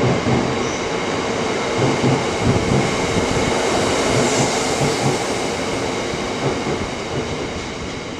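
A train running on rails: a steady rumble with several held whining tones and irregular low thuds from the wheels, slowly getting quieter toward the end.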